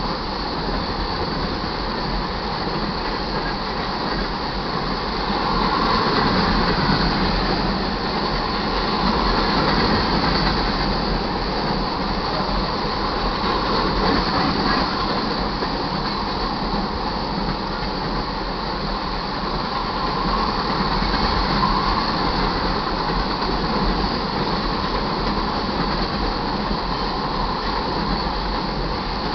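Crude oil train cars rolling past a grade crossing: a steady rumble and clatter of steel wheels on rail that swells and eases slightly every few seconds.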